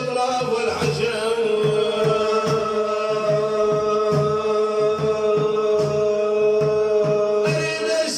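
A male voice holding one long note in an Arabic devotional chant, over a steady drum beat.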